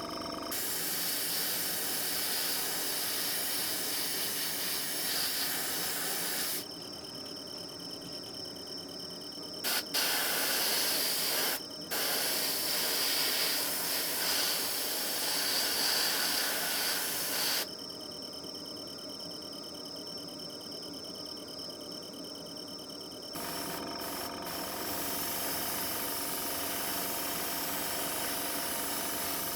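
Trigger-type airbrush spraying in several long bursts of hiss that start and stop sharply, with short breaks within the middle burst.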